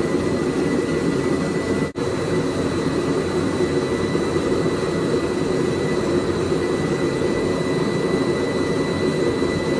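Homemade blacksmith's forge running steadily while a piece heats, with a faint steady high whistle over the noise. The sound drops out for a moment about two seconds in.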